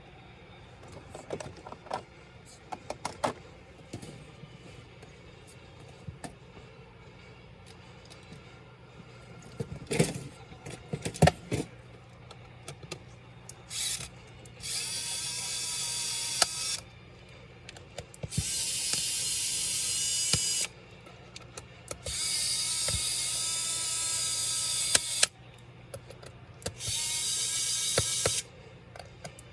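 Scattered clicks and taps of small parts and tools being handled, then a small electric screwdriver running in four separate bursts of two to three seconds each, driving out screws.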